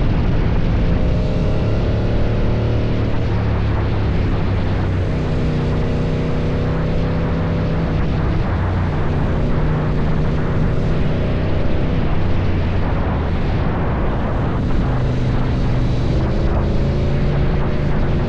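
KTM 790 Duke's parallel-twin engine running through an Akrapovic exhaust at steady, moderate revs, its pitch drifting gently up and down, with a few short sharp pops in the later seconds.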